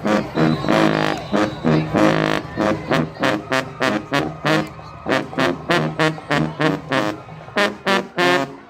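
High school band with brass to the fore, playing a run of short, detached notes in a quick, steady rhythm.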